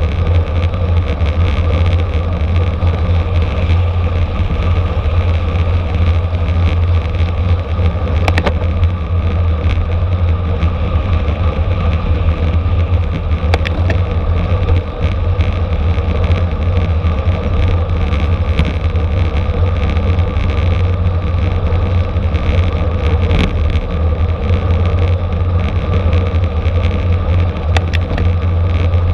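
Steady road and wind noise of a bicycle at race speed, with a few sharp clicks.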